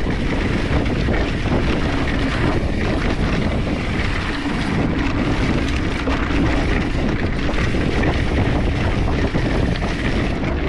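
Wind rushing over the camera microphone on a fast mountain-bike descent, with the tyres rolling over a dirt truck trail underneath. It stays steady and loud throughout, with a fine crackle of small knocks.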